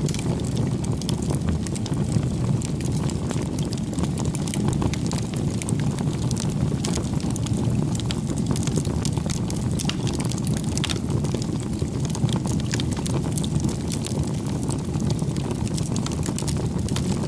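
Campfire burning: wood fire crackling and popping with many small irregular snaps over a steady low rush of flame.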